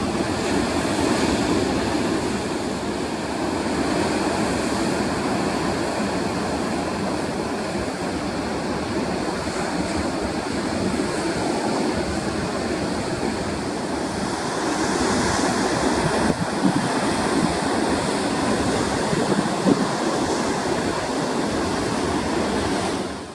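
Heavy surf breaking and washing in, a continuous rushing roar of big seas that swells louder about two-thirds of the way through.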